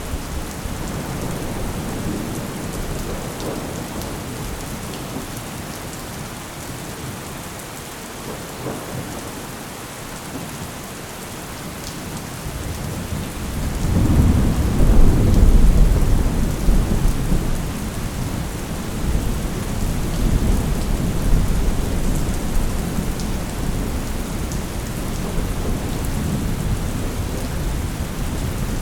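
Thunderstorm: steady rain falling, with a long low roll of thunder that builds about halfway through, peaks shortly after and rumbles on in swells.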